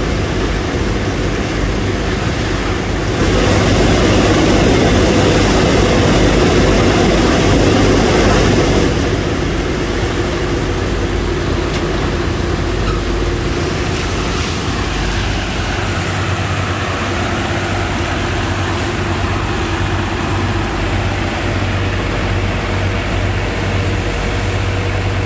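Sand-pump engine running steadily under load, with a louder stretch from about three to nine seconds in.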